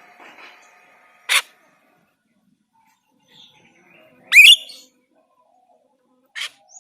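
Jalak rio-rio starling calling: a short sharp note, then about four seconds in a loud call that sweeps quickly upward, and another short note near the end.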